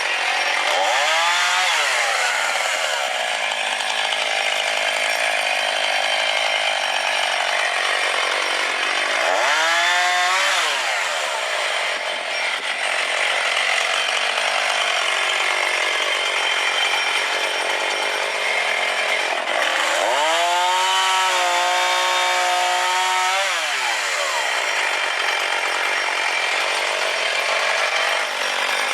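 Chainsaw running and cutting wood, its engine note swinging up and down three times: about a second in, around ten seconds in, and for several seconds near twenty seconds in.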